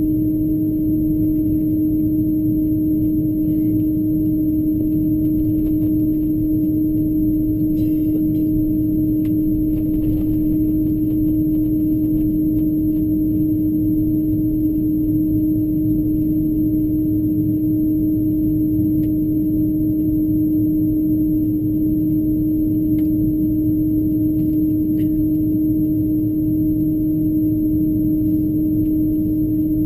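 Steady cabin noise inside an Airbus A330-223 airliner: a constant low rumble under a steady hum, with a few faint ticks.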